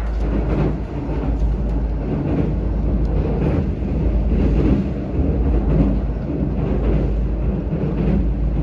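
Electric train running on rails: a steady rumble of wheels and running gear.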